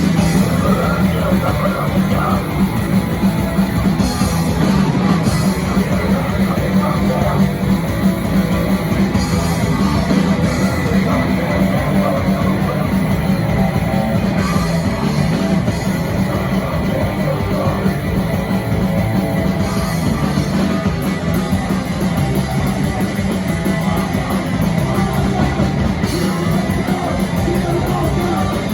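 Loud, dense heavy rock music played without a break.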